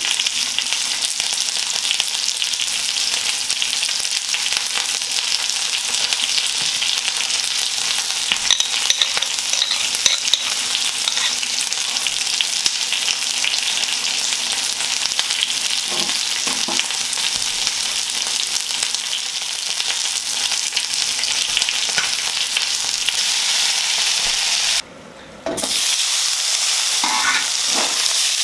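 Chicken drumsticks frying in a pan of sauce, a steady sizzling hiss. The sound drops out for about a second near the end, then sizzling resumes as sausages fry in a pan.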